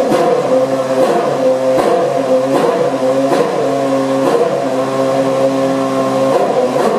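Ferrari Formula 1 car engine running at a steady idle, broken about once a second by short sharp crackles.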